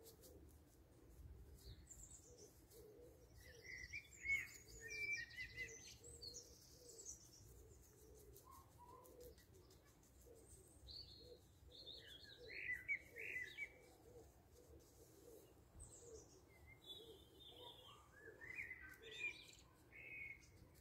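Small birds chirping in three short spells, about four seconds in, around twelve seconds in and near the end, over near silence.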